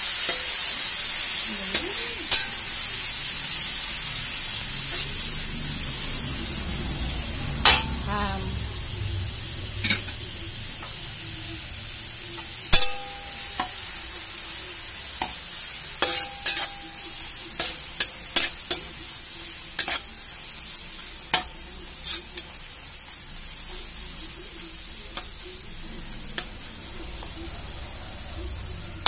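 Onion, garlic and diced meat sizzling in hot oil in a wok, loud at first and slowly easing off. A metal spatula scrapes and clacks against the wok now and then, with a few short metallic rings.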